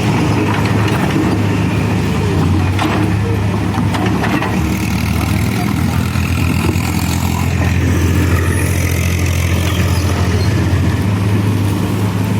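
CASE backhoe loader's diesel engine running steadily, with a couple of light knocks a few seconds in.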